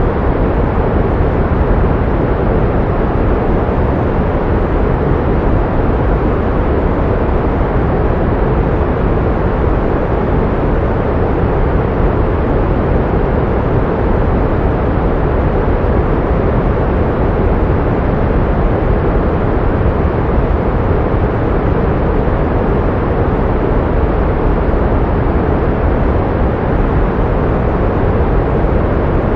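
Pink noise: a steady, even hiss weighted toward the low end, unchanging throughout.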